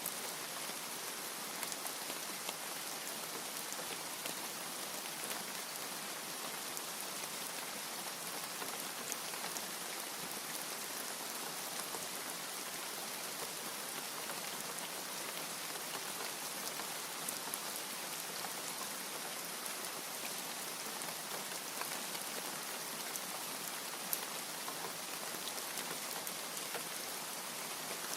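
Steady rain: a dense, even hiss with scattered sharp ticks of individual drops.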